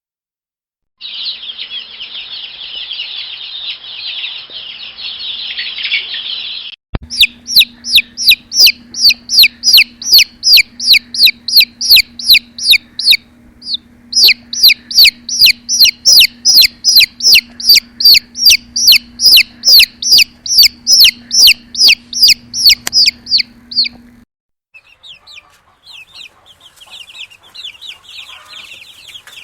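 Baby chicks peeping: first a dense chorus of many chicks chirping at once, then loud single peeps repeated steadily at about two and a half a second over a low steady hum, then fainter scattered chirping near the end.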